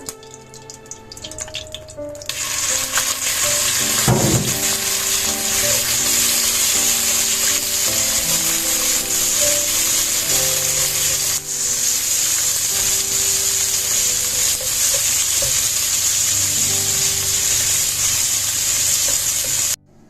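Food frying in hot oil in a pan: a loud, steady sizzle that starts suddenly about two seconds in, with a brief low knock about four seconds in, and cuts off just before the end.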